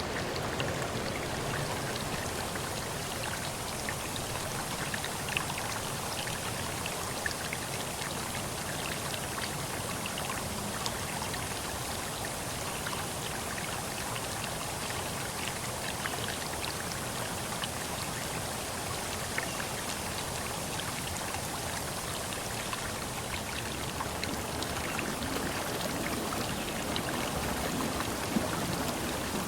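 Steady rushing water with many small, scattered drip-like ticks.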